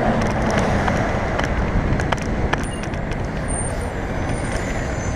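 City road traffic with vehicle engines passing, heard from a moving bicycle under a steady rush of wind on the microphone. A faint high-pitched squeal joins about halfway through.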